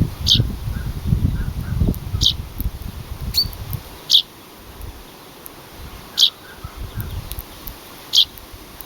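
A bird repeating a single short, high call about every two seconds, five times, over a low rumbling noise that dies away about halfway through.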